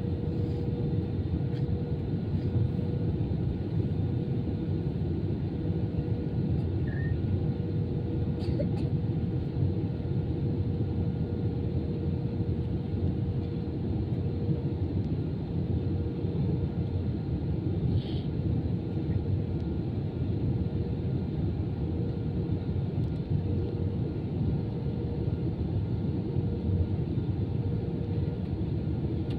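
Airbus A320 airliner cabin noise: a steady low rumble with a constant hum running through it.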